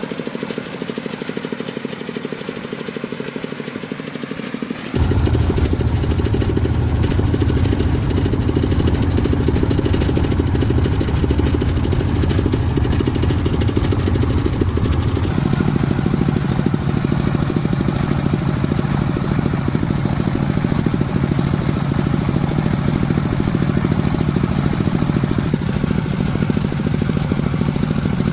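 Farm truck engine running with a steady rattle; it gets suddenly louder about five seconds in, and its note rises around halfway through.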